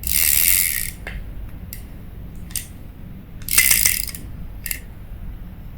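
Daiwa 1000X spinning reel being cranked by hand in two short spins, its gears whirring smoothly with no grinding after servicing. A few light clicks come between the spins.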